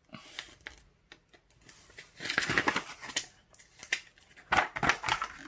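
Paper rustling and crinkling as the pages of a thin reading book are turned, in two short bursts, the longer about two seconds in.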